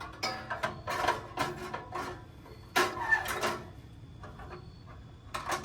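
Metal grill parts clattering and scraping in short bursts as a piece is worked into place on the grill.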